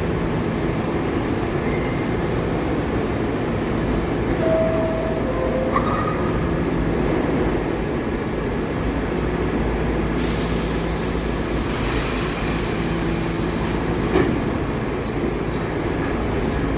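New York City subway train running on the rails with a steady rumble and a few brief wheel squeals; a high hiss joins about ten seconds in.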